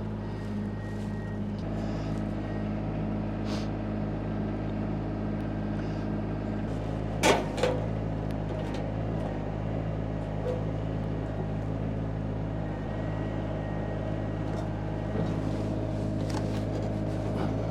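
Woodland Mills HM126 bandsaw mill's engine running steadily, its note changing about two seconds in. Two sharp knocks close together near the middle are the loudest sounds.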